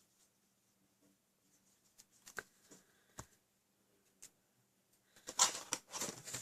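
Paper and card being handled on a craft table: a few light taps and clicks, then a burst of crinkly rustling near the end.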